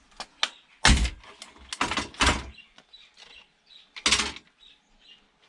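Knocks and clatters of a DVD player's plastic internals being pulled apart and handled during a teardown: one sharp knock about a second in, a quick run of two or three around two seconds, and another about four seconds in.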